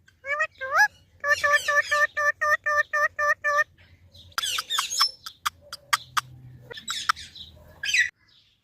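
Pet parrot calling: two rising whistles, then a run of quick repeated notes at about four a second, followed by sharp clicks and short squawks near the end.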